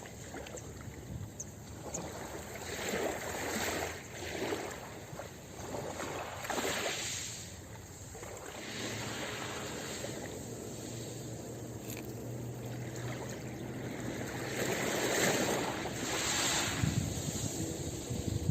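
Ocean surf washing onto a beach: waves swell and break in surges every few seconds, with a steady low rumble of surf between them.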